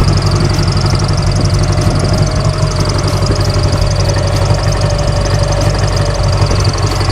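Subaru Impreza 2.5RS's 2.5-litre flat-four engine idling roughly with an uneven, pulsing rumble and the car shaking badly, a sound the owner says is like it's dying; the check engine light is on and the fault is unknown.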